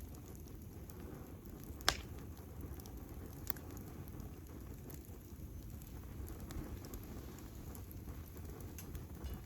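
Wood campfire burning: a steady low rustle of flames with scattered small crackles, one sharp pop about two seconds in and a lighter one about a second and a half later.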